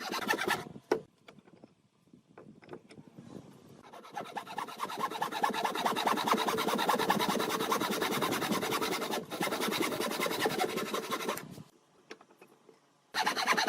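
A tool working wood with a fast, even rasping, after a few light knocks; it stops about eleven and a half seconds in and starts again near the end.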